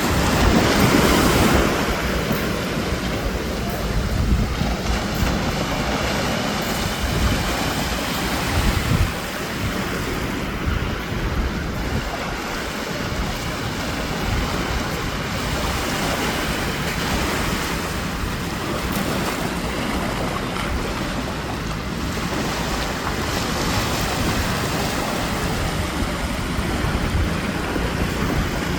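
Sea surf washing onto the shore in a continuous rush that swells and eases, with wind rumbling on the microphone.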